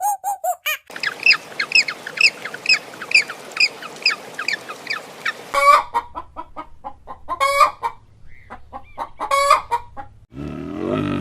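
Chickens clucking: a quick series of short, high, repeated calls, then louder separate squawking clucks. About ten seconds in, a deep, low animal call begins.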